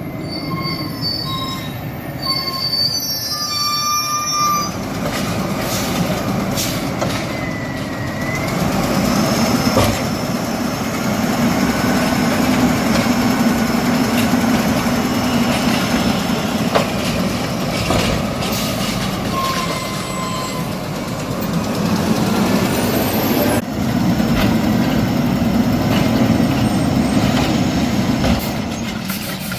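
Garbage truck working: its diesel engine running steadily under load, with high-pitched squeals and whines that come and go and slide in pitch. The sound gets louder about a third of the way in and again near the end.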